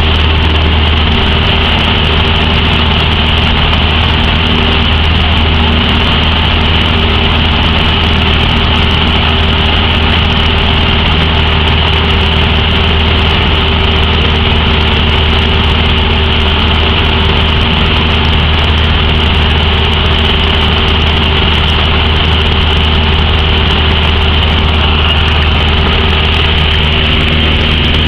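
Steady drone of a Cessna's piston engine and propeller, heard from inside the cabin, holding an even pitch and loudness throughout.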